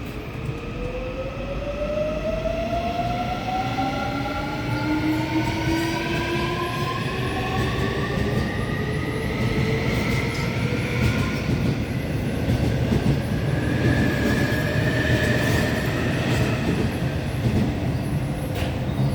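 Seoul Metro 4000-series electric train pulling away, its Woojin IGBT VVVF inverter and traction motors whining in several tones that climb steadily in pitch as it accelerates, over the rumble of wheels on rail. A few sharp clicks from the wheels sound near the end.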